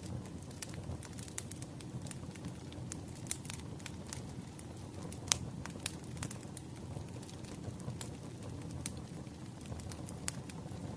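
Wood fire crackling: irregular sharp snaps and pops over a steady low rumble of burning logs, a few snaps louder than the rest.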